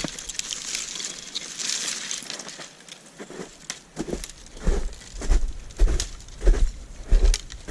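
Footsteps crunching over the ground outdoors: a rustling crunch at first, then steady heavy steps about every half second or so in the second half.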